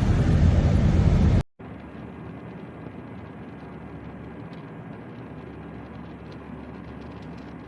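Steady road and engine noise of a moving car, loud at first, cutting off suddenly about a second and a half in to a much quieter steady vehicle hum.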